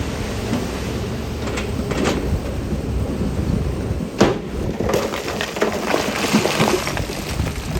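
Stone and rock tumbling and clattering under heavy machinery, over a steady low diesel engine rumble, with a sharp crack about four seconds in and denser crackling after it.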